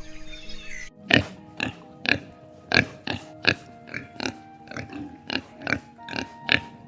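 A pig grunting in a run of short, sharp calls, about two a second, over steady background music. Birdsong cuts off abruptly about a second in, just before the grunts begin.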